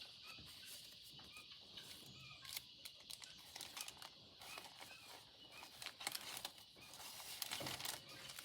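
Soft rustling and scattered light clicks and taps from the thick paper pages and inserts of a handmade junk journal being turned and handled.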